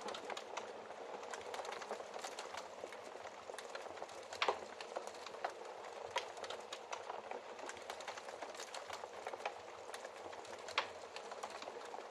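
Wood fire crackling steadily in a fireplace, with a dense run of small snaps and two louder pops, one about four seconds in and one near the end.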